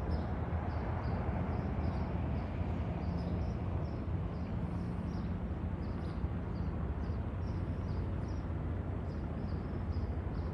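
Outdoor ambience: a steady low rumble with a small bird's high chirps repeating evenly, about two to three a second.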